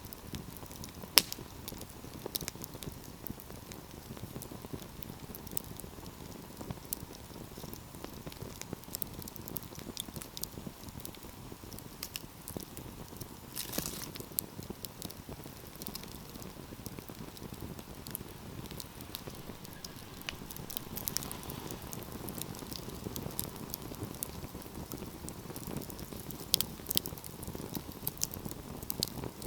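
Wood fire crackling steadily over a low rumble of burning, with scattered sharp pops, one loud pop about a second in and a run of pops near the end.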